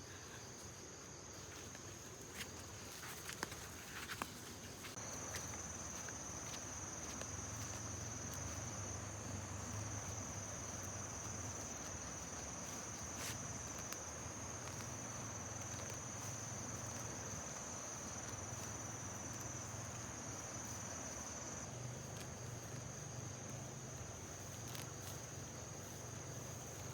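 Insects trilling steadily in one high, unbroken tone that grows louder about five seconds in, with a few light clicks shortly before.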